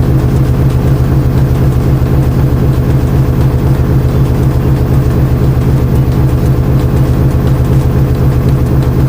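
Washing machine running mid-cycle, its motor giving a loud, steady low hum.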